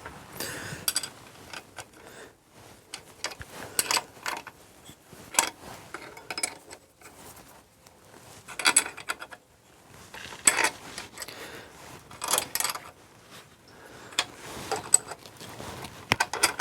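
Hand tools clicking and clinking against metal engine parts while the rocker assemblies are fitted and tightened down. Irregular sharp metallic clicks come in small clusters every second or two, some ringing briefly.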